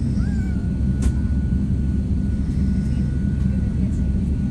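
Steady low rumble of a jet airliner's engines, with a thin steady whine over it and a single faint click about a second in.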